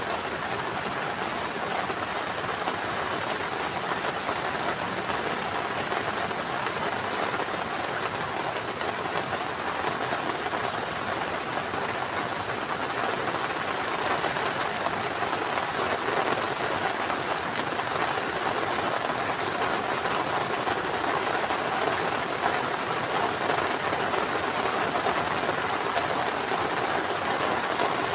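Heavy rain falling steadily in a dense, even hiss with scattered drop ticks, growing slightly louder in the second half.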